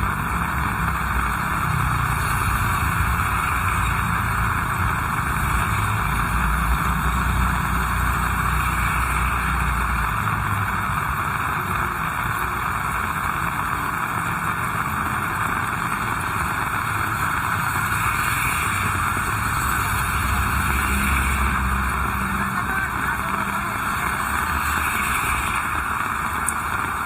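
Heavy rain falling steadily, with the low rumble of passing vehicles during roughly the first ten seconds and again later.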